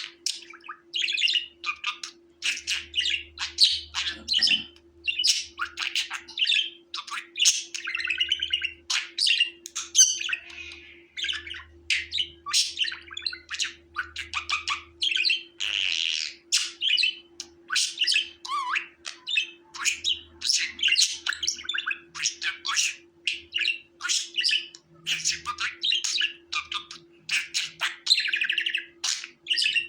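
Budgerigars (budgies) chattering and chirping without a break, a rapid stream of short warbles, chirps and squawks from what sounds like several birds at once. A faint steady hum lies beneath.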